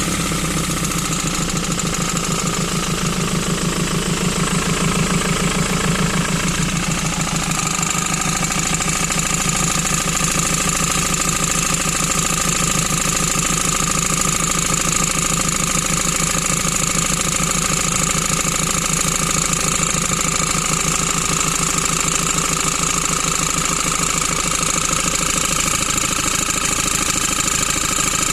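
Ford Transit Mk7 2.4 Puma diesel engine idling steadily with an even, rhythmic knocking noise, which the owner traced to a worn crankshaft pulley (the alternator pulley is also bad). A high whine comes up about seven seconds in.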